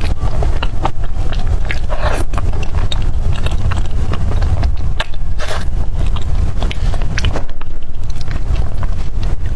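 Close-miked eating: a person chewing and biting, with irregular short mouth clicks and smacks over a steady low rumble.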